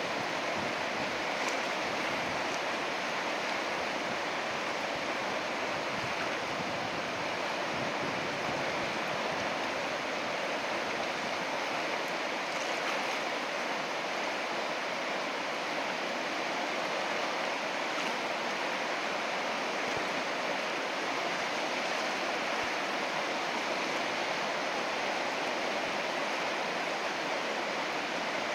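River rapids rushing steadily, a constant hiss of fast whitewater.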